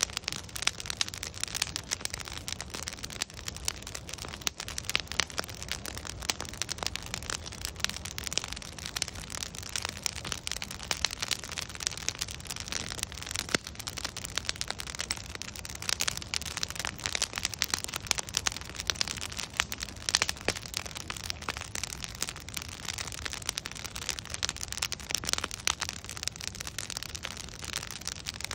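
Wood fire crackling: logs burning with a steady hiss and a dense, constant stream of small pops and snaps, a few sharper louder cracks among them.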